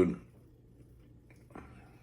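The end of a spoken word, then quiet room tone with a steady low hum and one faint, brief sound about one and a half seconds in.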